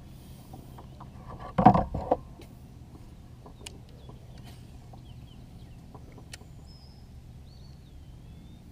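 A short loud clatter of a few knocks about a second and a half in, over a low steady hum. Faint, high bird whistles that glide in pitch come later.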